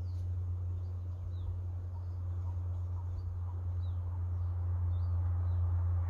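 Small bird giving short, high, down-slurred call notes about twice a second, faint over a steady low rumble and a soft outdoor hiss.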